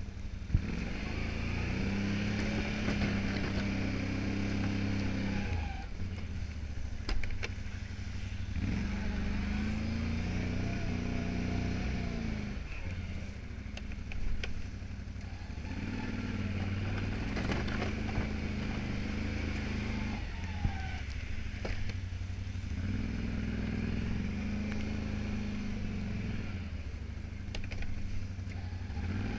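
Can-Am Outlander 570 XT ATV's V-twin engine working while plowing snow, its pitch rising and falling in four long pushes with short easings between, about every six or seven seconds. A few short knocks stand out.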